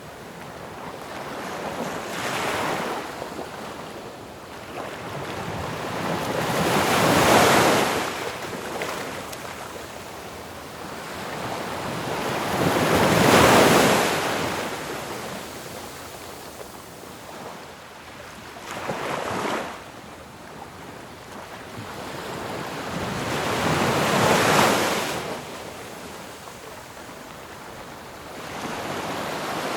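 Ocean waves breaking on a shore one after another, each building to a crash and washing back, about every five to six seconds; the loudest break comes about halfway through.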